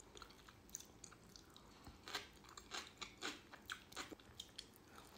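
Faint close-miked chewing of cold-smoked dorado: a run of short wet mouth clicks and smacks, about two or three a second, mostly in the second half.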